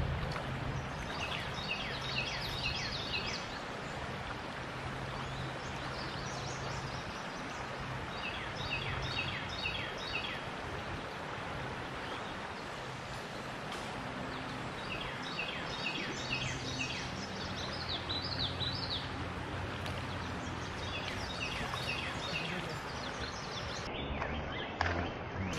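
A songbird singing several short bouts of quick, repeated down-slurred notes, a few seconds apart, over a steady outdoor background hiss.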